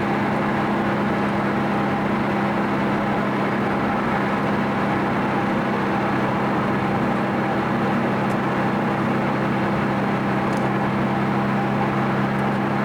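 Steady engine drone and road noise of a car cruising at constant speed, heard from inside the cabin. The engine's pitch holds level, with no revving or gear changes.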